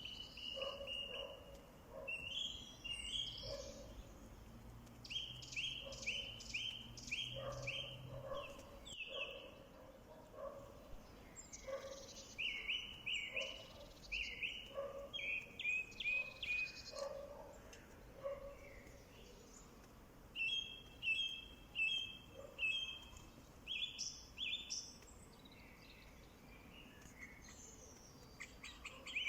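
Birds singing, series of quick high chirps repeated in bursts, with fainter lower notes underneath.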